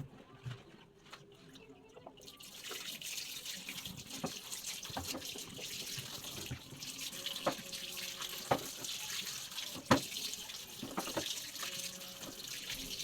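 Water from a kitchen tap running into a sink while vegetables are washed; the flow starts about two seconds in, and there are several sharp knocks from handling in the sink, the loudest near the end.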